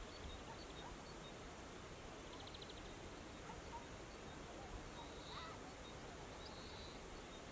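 Faint, distant songbird calls over steady outdoor hiss: scattered high chirps, a short rapid trill about two and a half seconds in, a few lower whistled notes, and a brief buzzy note a little past halfway.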